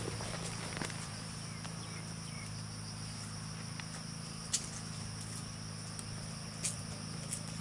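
Steady high-pitched insect chorus with a low steady hum underneath, broken by a few short sharp clicks, the loudest about four and a half seconds in.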